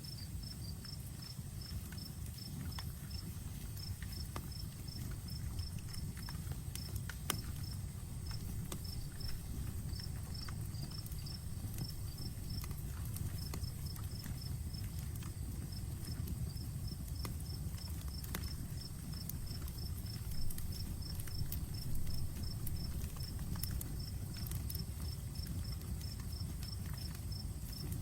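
Outdoor campfire burning with a low steady rumble and scattered sharp crackles and pops, a few louder pops about two-thirds of the way through. A cricket chirps in quick runs of short, evenly spaced chirps with brief pauses.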